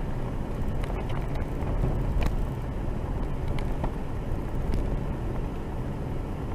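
Car driving, heard from inside the cabin: a steady low rumble of engine and road noise, with a few faint clicks and rattles.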